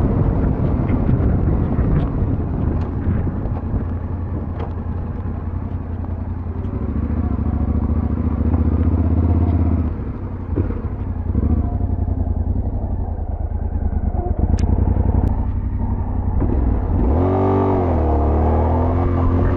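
Yamaha Ténéré 700 parallel-twin engine running under way, with a quick rising and falling rev near the end.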